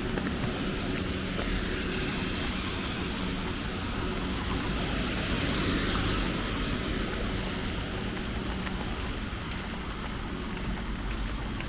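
Steady rain with road traffic. A vehicle passes on the wet road about halfway through, its tyre hiss swelling and then fading.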